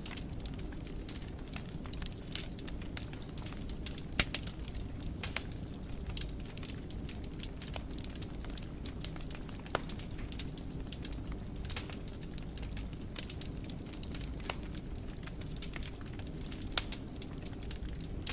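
Wood fire burning in a fireplace: a steady low rumble of flames with frequent irregular crackles and pops, one sharper pop about four seconds in.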